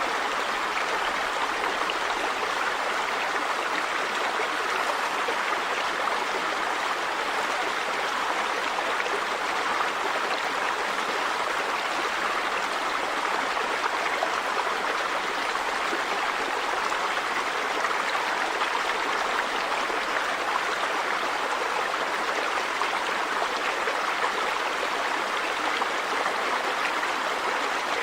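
River water running over rocks: a steady, even rush with no change.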